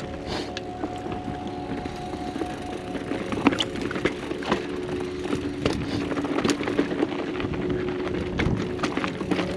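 Mountain bike rattling down a rough dirt and rock singletrack, with repeated sharp knocks and clicks from the bike over the bumps, loudest about three and a half seconds in. A steady buzzing tone runs underneath.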